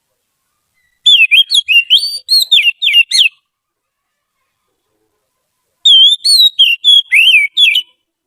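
Oriental magpie-robin (kacer) singing two bursts of rapid, sweeping whistled notes, with a silent pause between them.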